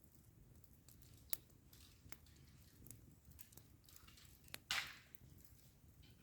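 Campfire crackling quietly: a few sharp pops from burning wood, with a louder crackle and short hiss near the end.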